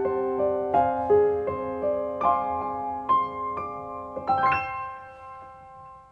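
Background piano music: a melody of single notes over held low notes, ending on a chord about four and a half seconds in that rings out and fades.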